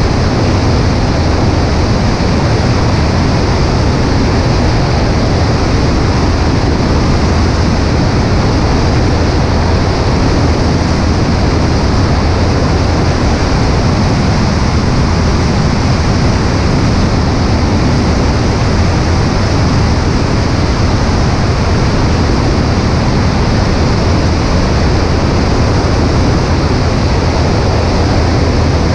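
Cessna 140A light aircraft running steadily, heard as a loud, even rush of wind over the wing-mounted microphone with a low engine drone underneath.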